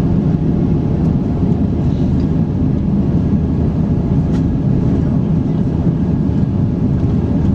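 Steady low rumble of an Airbus A350-900's Rolls-Royce Trent XWB engines and airflow, heard inside the passenger cabin.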